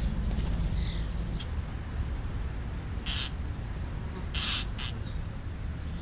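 Birds at a feeding spot giving two harsh, rasping calls about a second and a half apart, with a few faint short chirps before them, over a steady low rumble.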